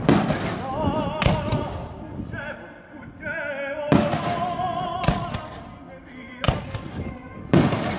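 Aerial firework shells bursting overhead, about six sharp bangs at one- to two-second intervals, each with an echoing tail. Under them, opera music with wavering sung notes.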